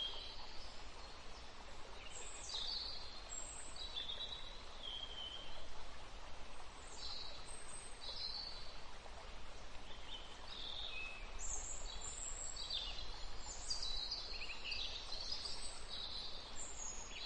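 Small birds calling in repeated short, high chirps over a steady background hiss; the sound cuts off abruptly at the end.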